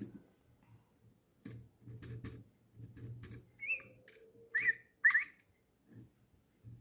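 DigiBirds toy lovebird giving three short electronic chirps through its small speaker, the last two the loudest, after a few soft clicks.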